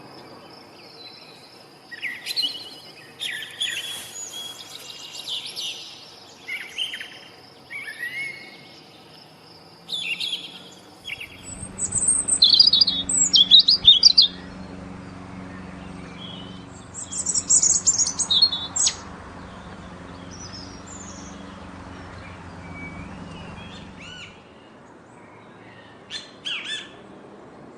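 Birds chirping and calling in a series of short, high notes, louder in two bursts around the middle. A steady low hum starts partway through and stops a few seconds before the last chirps.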